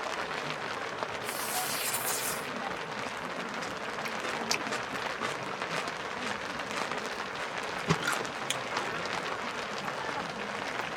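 Rain falling steadily on tent fabric, with a brief high hiss a little over a second in and a few sharp knocks, the loudest about eight seconds in.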